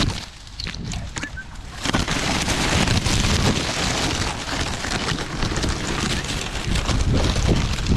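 Wind and rubbing noise on the microphone: a loud, even rush that comes in about two seconds in after a quieter start.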